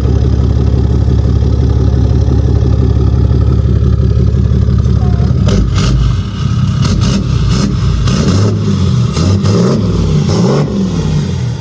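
Truck engine idling steadily through its newly upgraded exhaust, then revved up and down several times from about halfway through.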